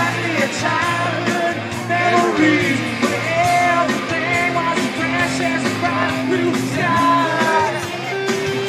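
Rock song with a singer over guitar and a steady drum beat.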